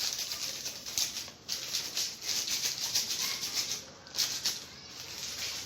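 A utensil working quickly and rhythmically in a mixing bowl, several strokes a second in bursts with short pauses, as baking powder is mixed into cake batter.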